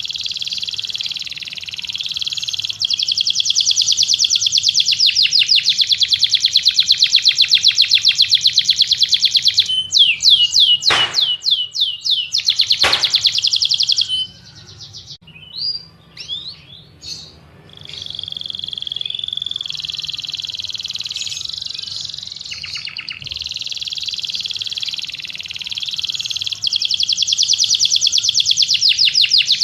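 A songbird singing long, very fast trills. Partway through come a few sweeping whistled notes, then a short break with scattered chirps, and the trill resumes.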